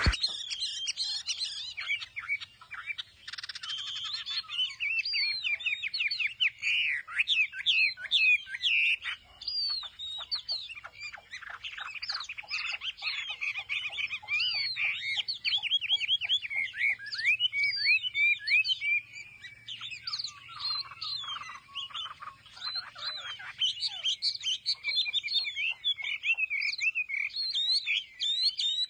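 Chinese hwamei (hoạ mi) singing a long, continuous song of rapidly varied whistled phrases, with runs of quick repeated notes in places.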